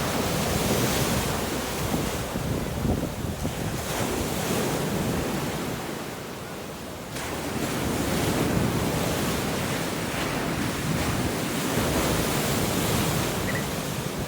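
Storm-force wind gusting hard against the microphone, over heavy surf, easing briefly about six seconds in before picking up again.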